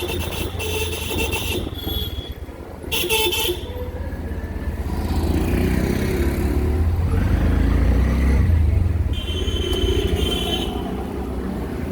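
Busy street traffic heard from a moving auto-rickshaw: a steady engine and road rumble, with repeated high-pitched horn honks. There are several short honks in the first few seconds and a longer blast about nine seconds in.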